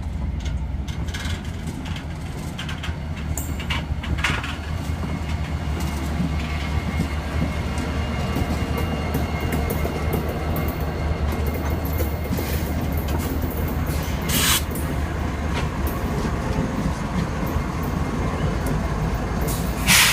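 Freight train with a diesel locomotive rolling in through a rail yard: a steady low engine rumble with a faint steady high squeal. A few sharp knocks sound through it, the loudest near the end.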